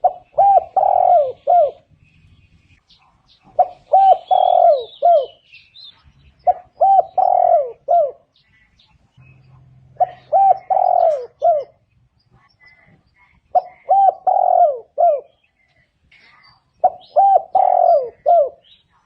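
Spotted dove cooing in a steady series: six phrases, one every three to four seconds, each a few short coos around a longer middle note. Faint chirps of small birds between the phrases.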